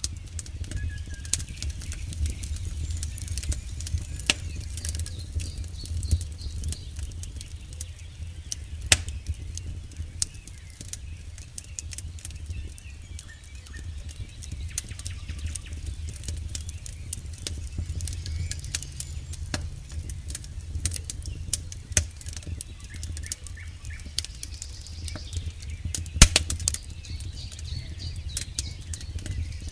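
Campfire burning, the wood crackling with many sharp snaps and pops over a steady low rumble of the flames, and one loud pop near the end.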